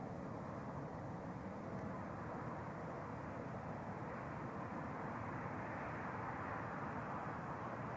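Distant jet aircraft engine noise: a steady rush that swells slightly in the second half.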